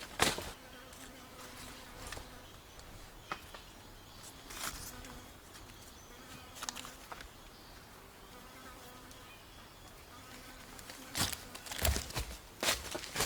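A flying insect buzzing faintly, the hum coming and going. Scattered sharp knocks run through it, and the loudest are a quick cluster in the last two seconds.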